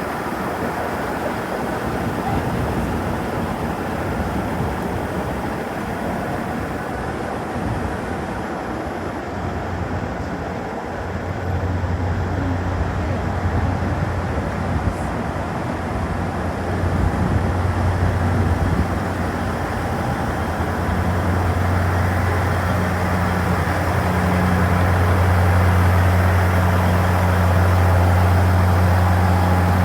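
Train at a station platform: steady running noise, and about eleven seconds in a low, steady hum sets in and grows louder toward the end.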